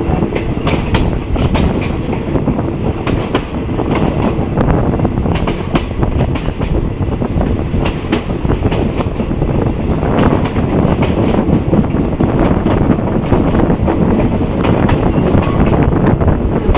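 Passenger train carriage running at speed, heard from an open window: wheels clattering over the rail joints with a constant rumble and rattle.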